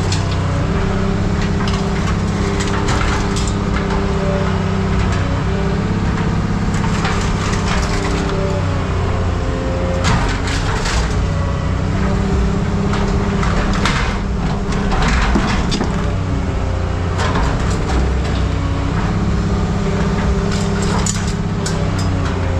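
Heavy scrap-yard machinery running, its engine pitch shifting up and down several times as it works, over repeated cracking and crunching of scrap metal.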